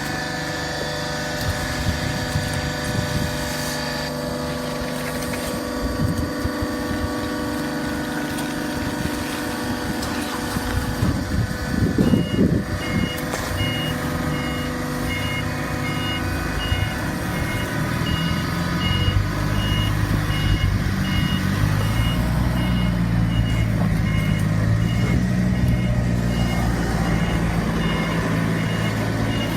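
Horizontal cardboard baler's machinery running with a steady hum. About a third of the way in, an electronic warning beeper starts, beeping in short repeated pulses. Later a heavier vehicle-like engine sound joins in.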